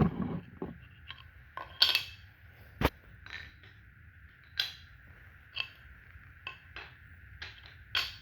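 Wooden Brio toy train track pieces being handled and fitted together: a scattered series of light clicks and knocks, about eight in all.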